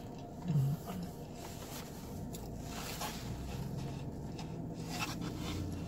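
Faint chewing and mouth sounds of someone eating a fish sandwich, with a few soft clicks and rustles, over a steady low hum.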